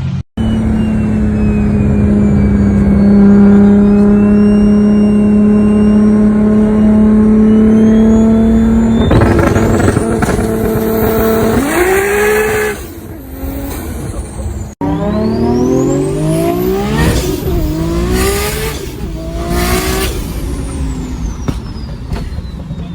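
Nissan Skyline R34 GT-R's twin-turbo RB26 straight-six held at steady high revs for about nine seconds, then the revs shift and drop. After a sudden break about two thirds of the way in, the revs climb again in steps through the gears with several sharp bangs, then fade.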